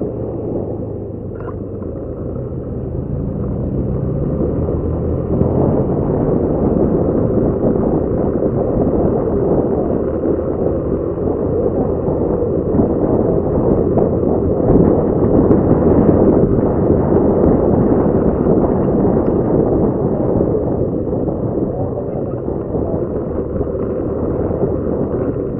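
Motorcycle on the move: wind buffeting the microphone over the engine's drone, getting louder about five seconds in.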